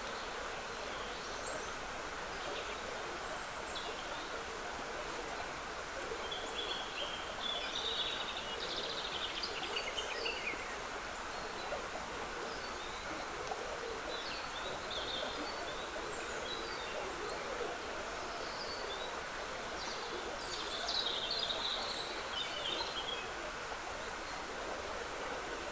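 Trickling woodland stream running steadily, with songbirds singing in short twittering phrases over it, loudest about six to ten seconds in and again around twenty-one seconds.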